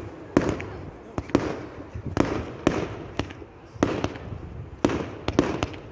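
Fireworks display: a rapid series of sharp bangs, about one or two a second, each with a rolling echo, over a steady crackle.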